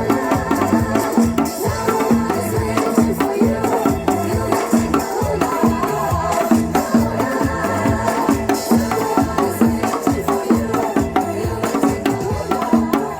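Upbeat disco-style backing music with a janggu, the Korean hourglass drum, played along in quick, steady strikes.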